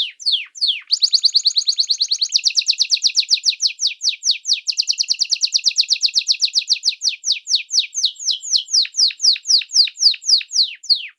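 Small songbird singing a long trill of rapid, high, downward-sweeping notes, very fast at first and slowing to about four notes a second near the end, then stopping suddenly.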